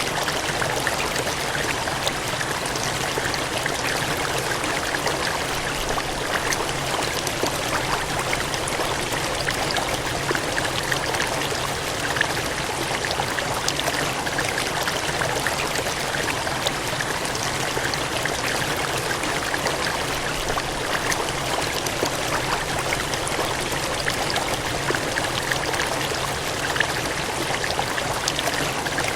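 Gushing, cascading water running steadily, with a dense, even rush and many small splashes and droplet ticks throughout.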